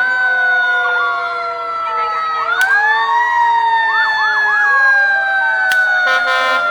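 Several emergency-vehicle sirens sounding together. One winds up about two and a half seconds in and then slowly falls in pitch, while another gives three quick rising whoops; a short blast comes near the end.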